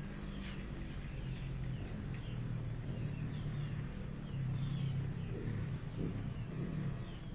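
Small birds chirping outdoors, short high chirps that fall in pitch, about one or two a second, over a steady low rumble.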